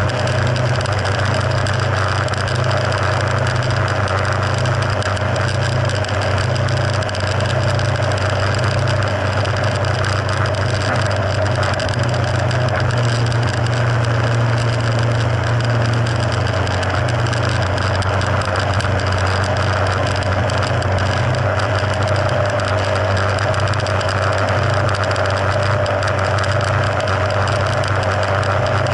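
Mercury F60 four-stroke outboard motor running steadily at an even speed, with no revving or change in pitch.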